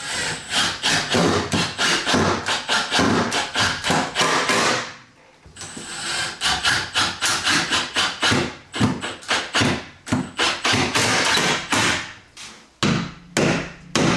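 Rapid runs of sharp knocks on wood, about four or five a second, as a tool works the door frame, with short breaks about five and ten seconds in.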